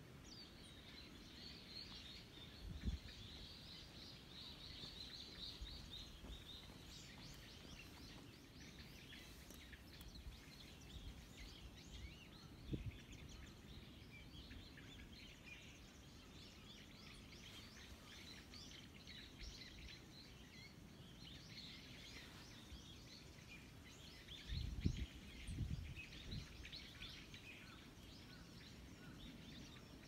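Small birds chirping and calling faintly, many short high notes overlapping, with a dense stretch of calls in the first few seconds. A few low thumps break in, around three seconds, thirteen seconds and twice near twenty-five seconds.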